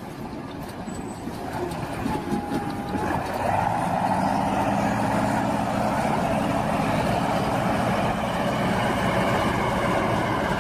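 A heavy vehicle's engine running, getting louder about three seconds in and then holding steady. A short steady tone sounds just before the rise.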